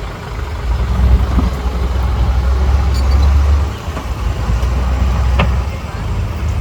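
Heavy diesel engine of earth-moving machinery running with a deep rumble that swells and eases, and a short sharp knock about five seconds in.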